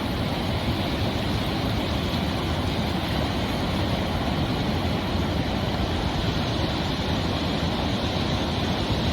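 Ocean surf: a steady rushing wash of breaking waves with a heavy low rumble.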